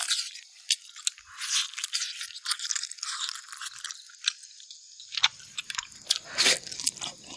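Close-up eating sounds: chewing and gnawing meat off spicy braised beef spine bones, with sucking at the bone and many short crunches. It gets louder about five seconds in, with several sharper crunches.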